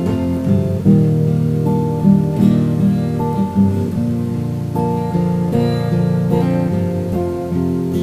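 Acoustic guitar playing chords in an instrumental passage with no singing, the chords changing about every second.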